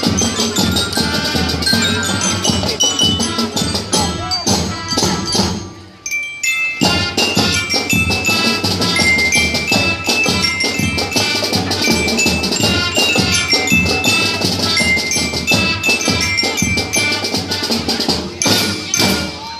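Marching band playing, with drums and mallet percussion ringing over the ensemble. The music breaks off briefly about six seconds in, then comes back in.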